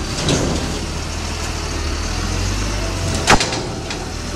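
Front-lift garbage truck's diesel engine running steadily, with one sharp bang about three seconds in.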